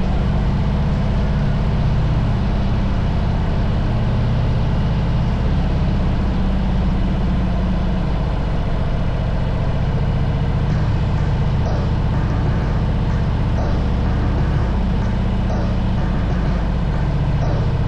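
Harley-Davidson motorcycle engine running steadily while riding at an even speed, a constant low rumble under a steady rush of noise.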